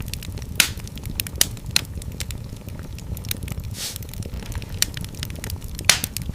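Fire burning in a fireplace: a steady low rumble with constant irregular crackling, and sharper pops about half a second in, around the middle and near the end.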